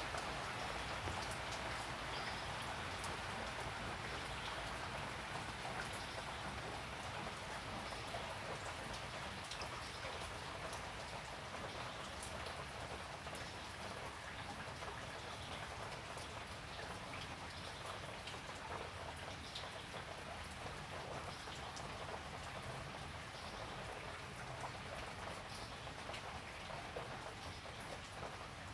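Steady morning rain falling, an even hiss with scattered sharper drop hits, easing slightly over the half minute.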